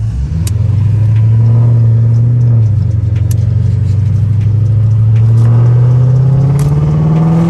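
Dodge Charger R/T's Hemi V8 accelerating hard from inside the car: the engine note climbs, dips briefly about two and a half seconds in as it shifts up, then climbs steadily again.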